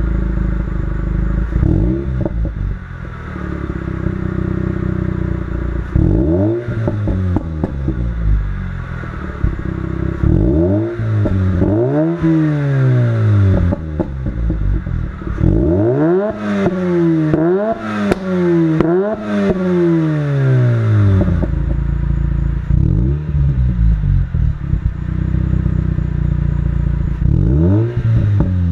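Mazda RX-8's twin-rotor rotary engine idling through an HKS Hi-Power cat-back exhaust and being revved: single blips spaced through the idle, and a run of about four quick revs in the middle, each falling back to idle.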